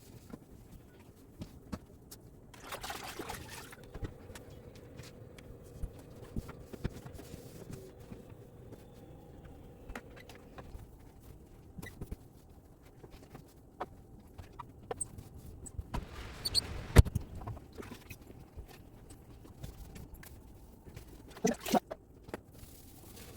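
Handling noises from cleaning a window: scattered clicks and knocks, with short rubbing or wiping sounds about 3 seconds in and again around 16 seconds, and one sharp knock about 17 seconds in.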